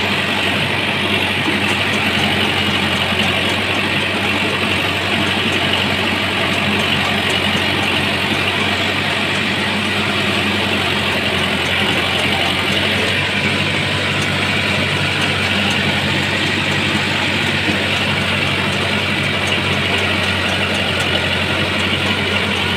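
Truck engine idling steadily, its low hum holding an even pitch.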